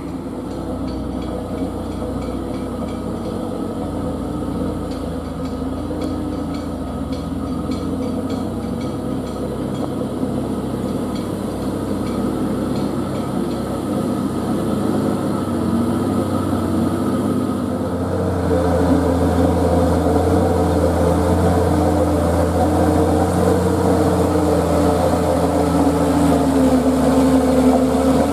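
Heavy truck engine running steadily, getting louder with a stronger, deeper note about two-thirds of the way through.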